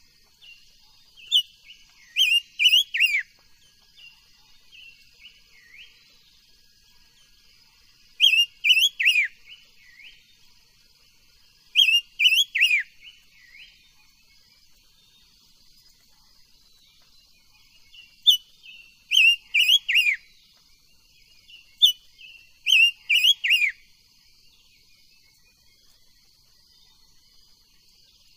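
Silver-eared mesia singing: short phrases of three or four loud, clear whistled notes that sweep downward, repeated every few seconds with pauses between. A faint steady high-pitched drone runs underneath.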